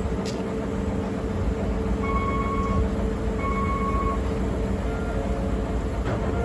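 DE10 diesel locomotive running with a steady low rumble and hum while it is turned on the turntable. Two short, faint pitched tones sound about two and three and a half seconds in.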